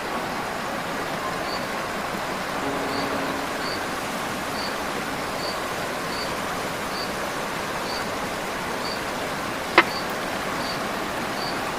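Steady rush of a flowing river, with a short high chirp repeating roughly once a second over it and one sharp click about ten seconds in.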